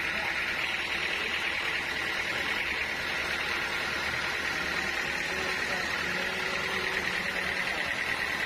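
Sawmill machinery running steadily: a constant hiss over a low motor hum, unchanging throughout.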